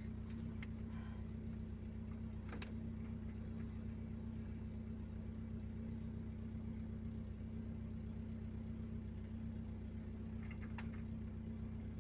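Car engine running steadily, heard from inside the moving vehicle, with a few brief knocks or rattles early on.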